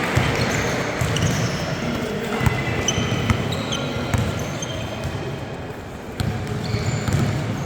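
Basketball bouncing on a court floor during play, with short, high squeaks from sneakers scattered throughout, over a general hall murmur.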